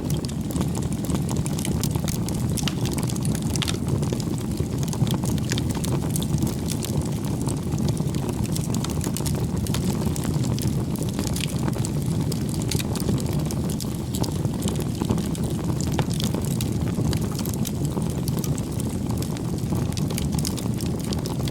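Bonfire burning: a steady low rush of flame under frequent small crackles and pops.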